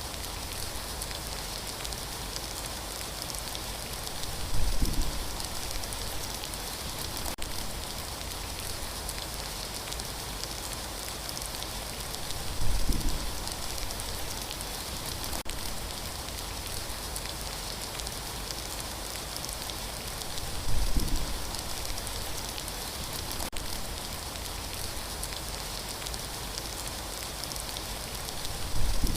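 Steady rain falling, an even hiss, with a brief low rumble that swells about every eight seconds, four times in all.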